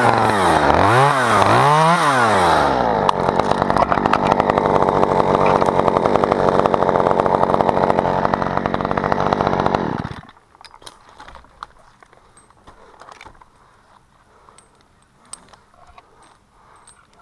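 Chainsaw revved up and down three times in quick succession, then held at full speed for several seconds before cutting off suddenly about ten seconds in. After that only faint clicks and rustles.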